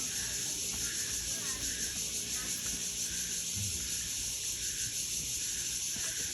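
Steady high-pitched chorus of cicadas in forest, with a softer call repeating a little more than once a second.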